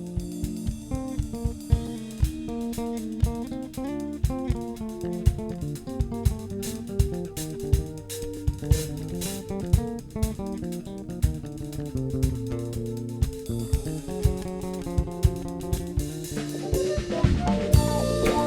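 Jazz-funk band playing: guitar over drum kit and bass with a steady beat. The band gets louder near the end.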